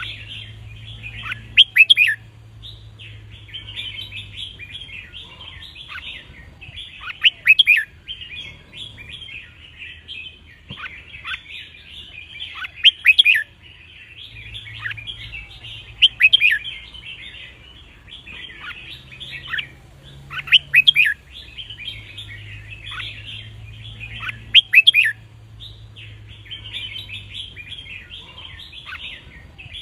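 Red-whiskered bulbul song: loud, clear whistled phrases come about every three to six seconds over steady bird twittering. A faint low hum comes and goes underneath.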